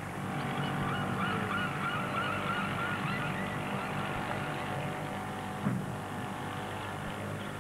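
Birds calling in a rapid run of repeated notes, then more sparsely, over a low steady hum. A single knock comes late on.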